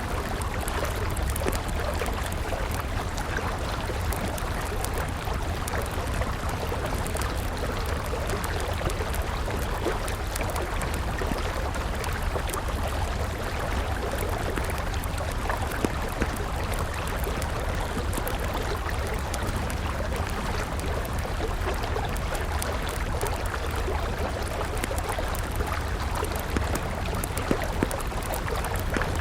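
River water rushing steadily with a wood campfire crackling over it, with a few sharper pops from the fire around the middle and near the end.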